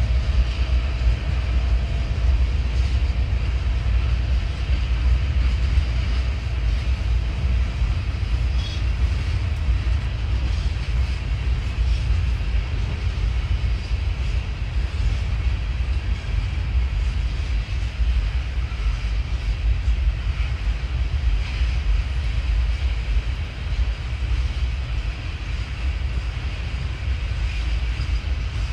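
Freight train running on the tracks, a steady low rumble.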